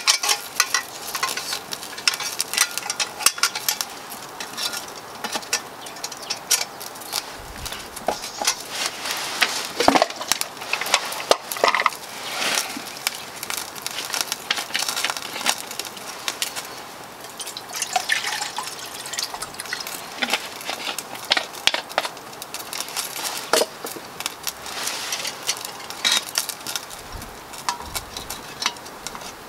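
Small wood fire of resinous pallet fatwood crackling and spitting in a metal camp stove, with many irregular sharp pops over a steady hiss.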